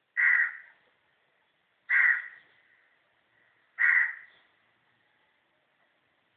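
A bird calling three times, short harsh calls about two seconds apart, each fading quickly.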